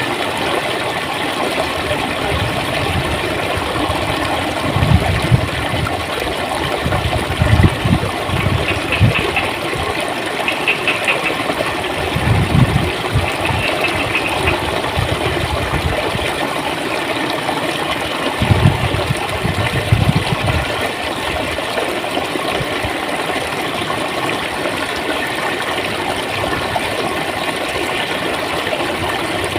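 Clear stream water flowing and gurgling steadily, with a few deeper low surges in the first two-thirds.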